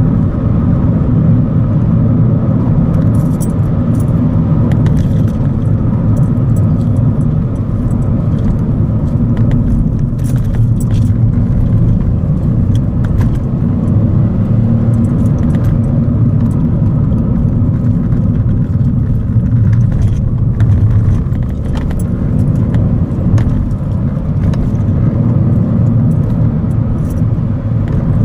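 A 2015 Ford Fiesta Zetec S on the move, with a steady rumble of engine and road noise and many small rattling, jangling clicks throughout.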